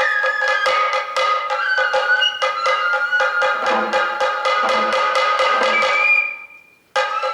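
Sato kagura accompaniment: a bamboo flute melody over fast, even stick drumming, with occasional deeper drum beats. About six and a half seconds in the music fades out and then cuts back in abruptly.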